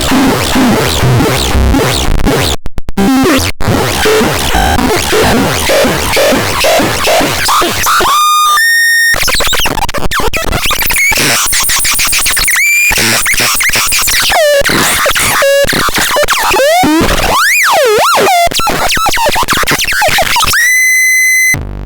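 Synthesizer making harsh, noisy electronic sounds: pulsing noise for the first several seconds, then held pitched tones, quick swooping pitch glides, and a steady high tone near the end.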